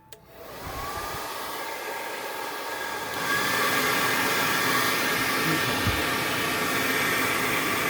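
Remington hair dryer switched on with a click, its motor whine rising as it spins up into a steady rush of air. It gets louder about three seconds in and then runs steadily.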